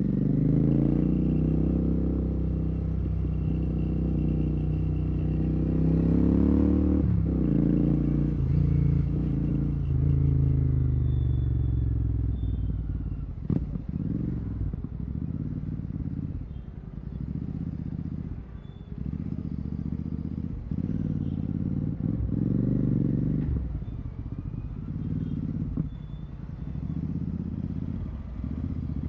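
Royal Enfield Continental GT 650's 648 cc parallel-twin engine through a Red Rooster aftermarket exhaust with no dB killer. It pulls with rising pitch for about six seconds, drops sharply as it shifts, then winds down off the throttle. In the second half it comes in short throttle surges about a second apart, with one sharp click midway.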